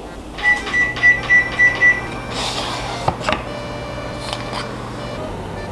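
Kitchen appliance beeping six short times in quick succession, then a low steady hum with a brief rustle and a click partway through.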